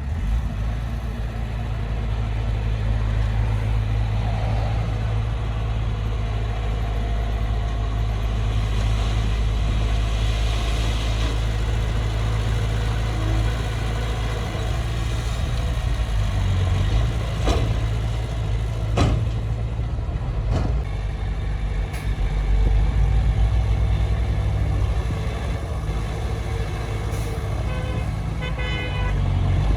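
Heavy earthmoving machine's diesel engine running steadily, with several sharp metallic knocks about two thirds of the way through and a brief rattle near the end.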